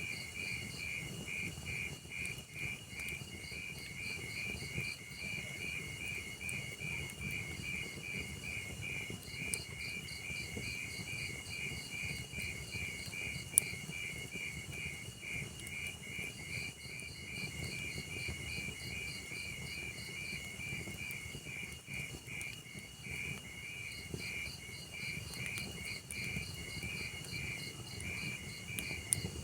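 Crickets chirping in a steady pulsing rhythm, a few chirps a second, over the low even rush of a burning log fire, with a single sharp crackle of the fire about 13 seconds in.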